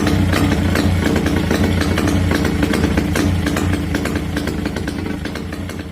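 Velorex 16/350's Jawa 350 two-stroke twin engine running steadily on test, fading away near the end.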